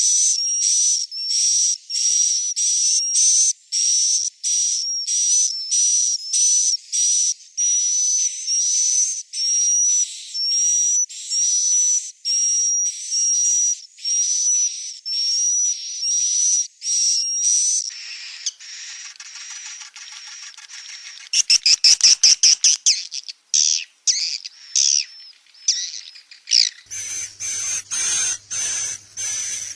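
Swiftlet roosting-lure recording: high, rapidly repeated twittering chirps of swiftlet chicks, about two a second. Partway through they give way to a denser chattering with a short burst of very fast clicks, then the chirps resume over a faint low hum.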